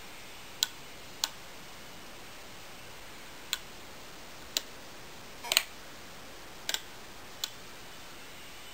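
Several sharp, irregularly spaced clicks, two of them doubled, over a steady faint hiss; no motor or inverter whine is heard.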